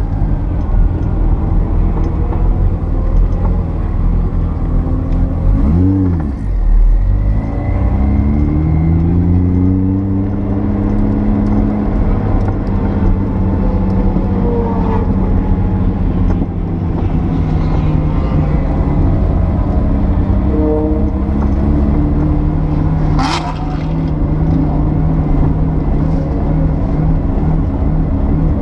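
The air-cooled 3.3-litre turbocharged flat-six of a 1979 Porsche 930 Turbo, heard from inside the car at speed on a track. The revs dip and recover sharply about six seconds in, climb steadily under acceleration over the next few seconds, then run on at a steadier pitch with smaller rises and falls. One brief sharp sound comes about two-thirds of the way through.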